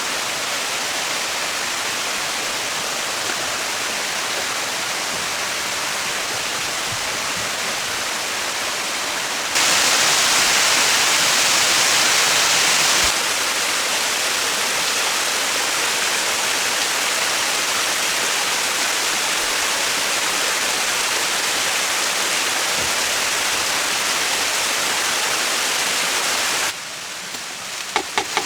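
Steady rushing noise of running water, jumping louder for a few seconds about ten seconds in and dropping away abruptly near the end, where a few sharp clicks follow.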